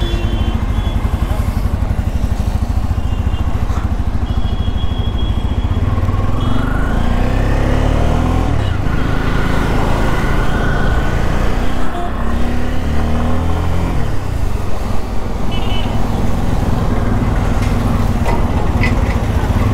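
Bajaj Pulsar N250's single-cylinder engine pulling away in first gear and accelerating through city traffic, its note rising in pitch a few times as it gathers speed.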